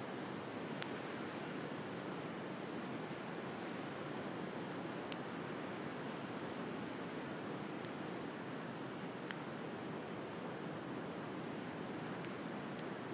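Steady wash of sea surf with a wood bonfire crackling over it: a handful of sharp, isolated pops from the burning firewood.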